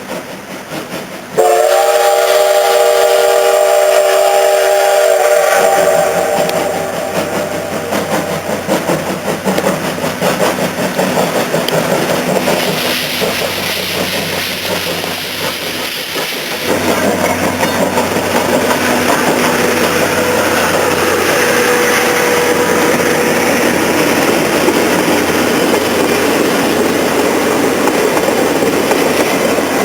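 Steam locomotive whistle sounding one long blast, starting about a second in and lasting about four seconds before trailing away. After it the train runs past, with wheels clicking over the rail joints, and the noise grows louder about halfway through.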